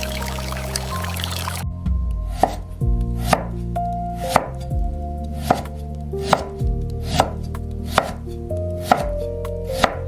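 Knife chopping food on a cutting board, with sharp even strokes about once a second starting near the two-second mark. Soft background music plays underneath. Before the chopping, a steady rushing hiss cuts off suddenly.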